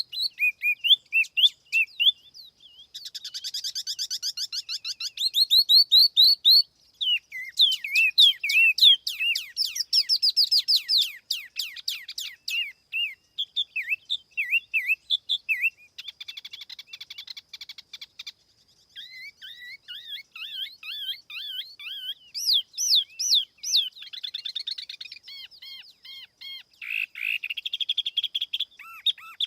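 Tiểu mi songbird singing a fast, varied song of chirps, trills and whistled notes with short pauses, played as a clean lure call for attracting the same species.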